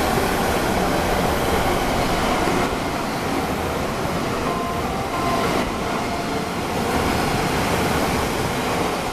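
MTR Airport Express A-Train, an Adtranz-CAF electric multiple unit, running through the station without stopping: a loud, continuous rush of wheels on rail and air as the carriages go past.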